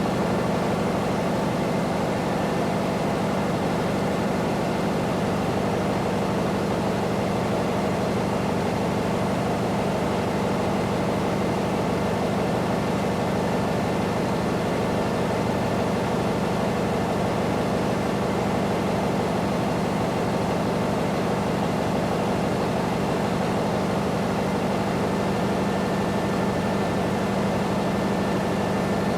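Construction-site heavy machinery engine running steadily: a constant low drone with a few faint steady tones above it, no knocks or impacts.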